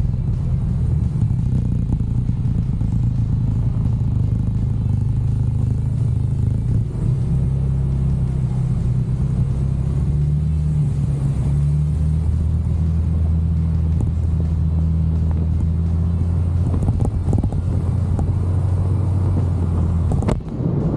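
Genuine Buddy 170i scooter's single-cylinder engine running under way, with a steady low drone whose pitch shifts with speed, rising about a third of the way in and dropping near the end.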